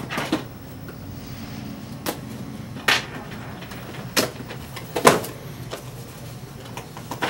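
Cardboard box and plastic packaging being handled and opened, with a series of sharp clicks, knocks and rustles, the loudest about five seconds in, over a steady low hum.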